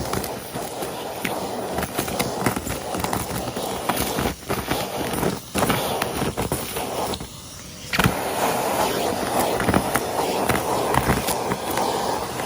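Henry cylinder vacuum cleaner running and sucking up crunchy debris, with many sharp clicks and rattles as bits go up the hose. The sound dips briefly a few times, most noticeably for about a second past the middle.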